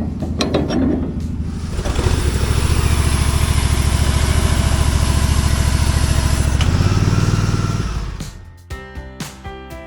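An engine running, revving up about two seconds in and holding at high speed, then dropping back and dying away around eight seconds. Music with plucked guitar notes follows.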